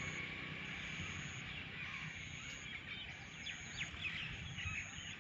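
Birds chirping in quick short calls, busiest in the second half, over a steady outdoor hiss. A thin high tone pulses on and off about once a second.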